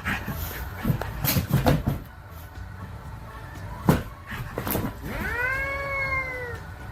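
A cat's single long, drawn-out meow that rises, holds, then slides down, after several knocks and clatters and two sharp clicks.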